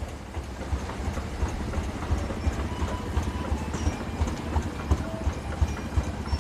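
Old tractor engine running with an uneven low chugging.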